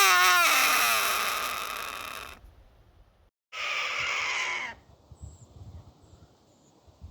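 Harsh screaming calls of a bird of prey: a loud, wavering call that falls in pitch and fades over about two seconds, then about three and a half seconds in a second, shorter harsh call of about a second.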